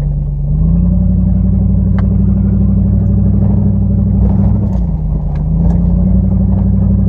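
Dodge Ram pickup truck's engine running under load on a rough dirt trail, the revs rising about half a second in, dipping near five seconds and picking up again. A few sharp knocks or rattles come through over the engine.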